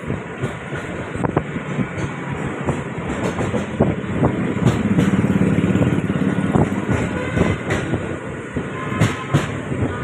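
Suburban electric train running along the track: a steady rumble with irregular clacks and knocks from the wheels, loudest about halfway through.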